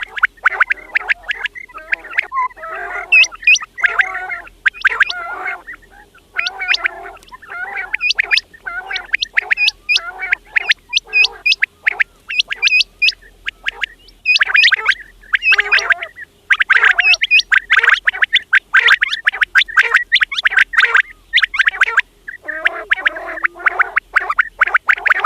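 Quails calling continuously: rapid runs of short, sharp, high notes over a lower gurgling chatter, with brief breaks now and then.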